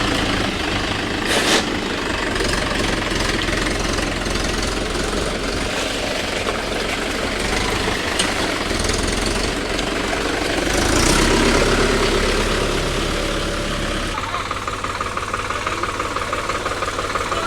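Tractor diesel engine running steadily, with a sharp knock about a second and a half in and a brief swell in level around eleven seconds in.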